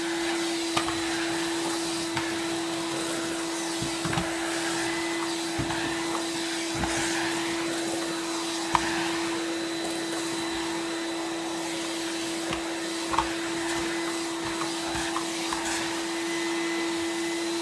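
Numatic NV370 tub vacuum cleaner running steadily with a constant pitched hum and a rush of suction air. Occasional short clicks come from bits of shredded paper being sucked up the hose.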